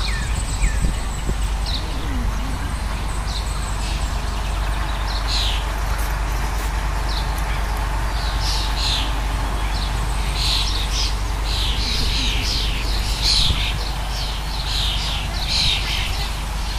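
Birds chirping and calling in trees: many short, high, downward-sweeping chirps, sparse at first and coming thick and fast from about five seconds in, over a steady low rumble.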